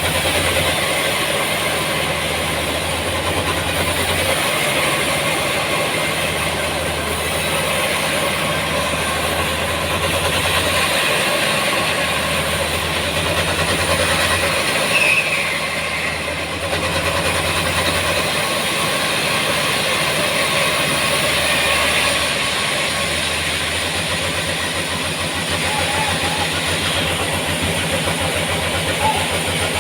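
Sawmill machinery running with a loud, steady mechanical noise. A low hum swells and drops back every few seconds.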